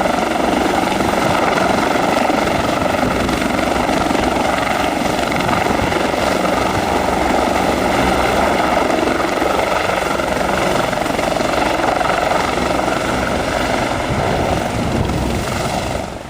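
A twin-turbine news helicopter running loud and steady close by: a dense rush of turbine and rotor with a steady high whine. It drops off suddenly just before the end.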